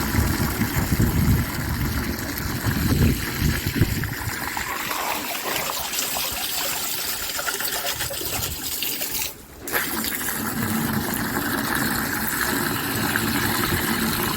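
Flush water from the toilet gushing and trickling through a root-blocked soil stack being surge-washed, heaviest in the first few seconds and then a steady splashing flow. The flow briefly drops out about nine seconds in.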